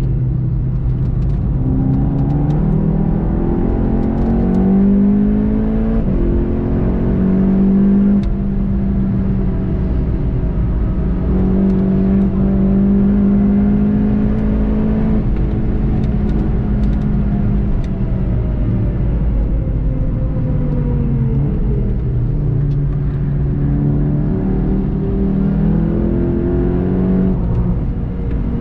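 VW Golf 7.5 GTI TCR's turbocharged four-cylinder engine pulling hard, its pitch climbing and dropping back at two upshifts, holding, then sinking as the car slows, and climbing again under acceleration near the end, over steady tyre and road noise.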